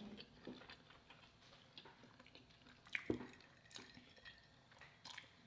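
Faint wet chewing and mouth sounds from eating lobster, with scattered small clicks and one sharper click about three seconds in.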